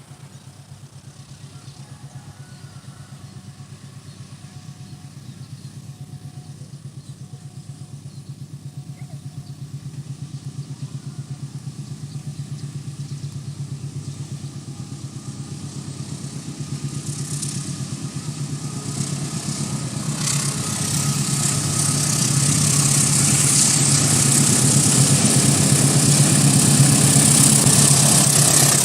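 Diesel locomotive engine running with a steady low drone that grows louder as the train approaches. A rising rush of wheel and rail noise builds over the last ten seconds or so.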